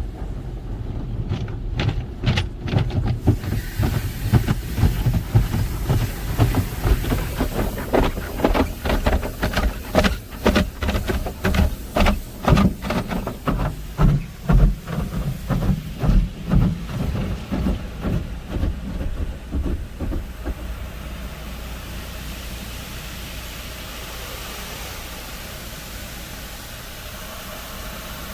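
Car wash brushes slapping and scrubbing against the car's body, heard from inside the car as a rapid, irregular run of thumps over a low rumble. The thumps die away about twenty seconds in, and a steady hiss takes over.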